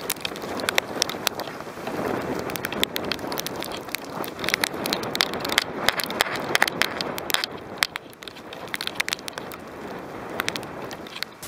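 Rain and gusting wind, with many sharp raindrop impacts ticking irregularly close to the microphone.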